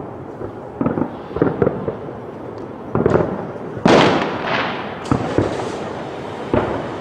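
Fireworks exploding: a series of irregular bangs, each trailing off, with the loudest burst about four seconds in.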